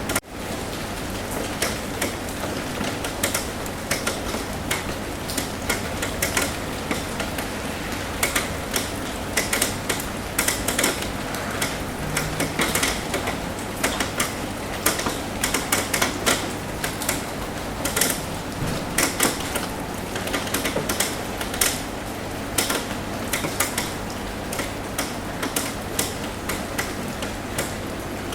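Rain tapping on a roof: a steady hiss of rain with irregular sharp taps of individual drops, busiest in the middle, over a faint steady low hum.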